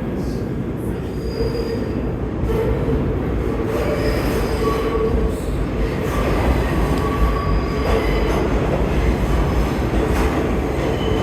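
New York City subway train running into the station, a steady deep rumble with squealing wheels, the high tones coming and going and the noise slowly growing louder.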